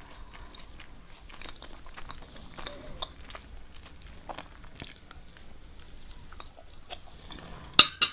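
Close-up chewing and crunching of food, with many small soft clicks. Two sharp, much louder knocks come near the end.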